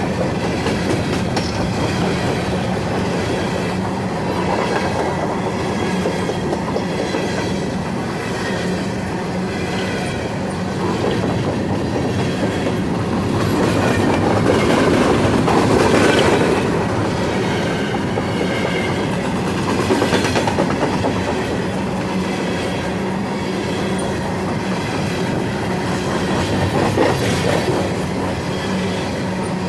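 Empty coal hopper cars of a long freight train rolling past: a steady rumble of steel wheels on rail with clicking over the joints, swelling louder a few times.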